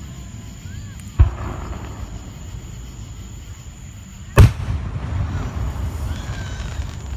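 Fireworks bursting overhead: two sharp booms, about a second in and about four seconds in, the second the louder, followed by a low rumble.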